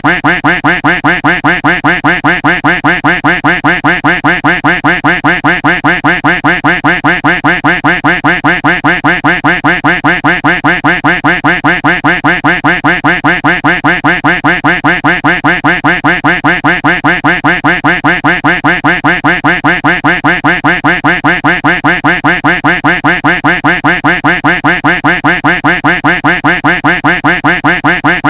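Duck quack sound effect looped without a break, the same quack repeating evenly at about four a second.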